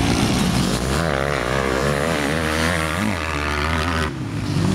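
Honda CR250 two-stroke motocross bike engine revving up and down with the throttle. The sound drops away abruptly about four seconds in.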